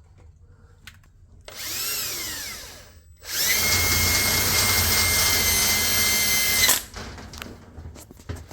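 Power drill pre-drilling a hole in a red oak cabinet door: a short burst that speeds up and slows down, then a steady run at full speed for about three and a half seconds that stops suddenly, followed by a few light knocks.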